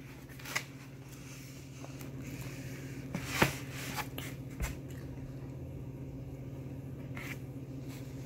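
Close-up chewing and mouth sounds of someone eating breaded fried chicken, with a few short sharp smacks and clicks, the loudest about three and a half seconds in, over a steady low hum.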